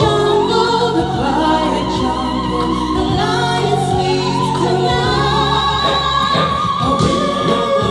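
Singing with instrumental backing: voices holding long notes with a wide vibrato over a steady low accompaniment.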